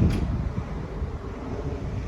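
Steady low rumble and rushing air noise of a Boeing 787-9 airliner in motion, with uneven low thumps and a short knock just after the start.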